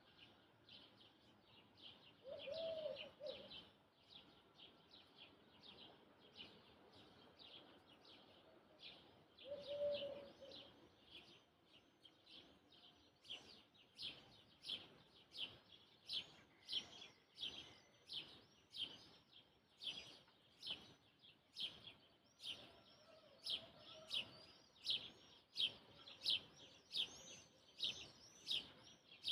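Birdsong: a bird repeats a short, high chirp about twice a second, becoming steadier and louder in the second half. Two lower, louder calls stand out at about two and ten seconds in.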